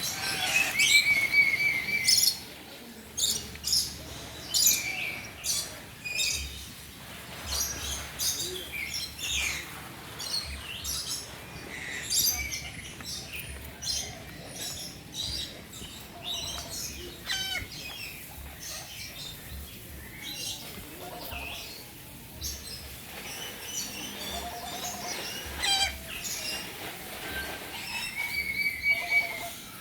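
Birds chirping and calling, with many short high chirps coming one after another. Near the start and again near the end there is the same held call with a flat pitch.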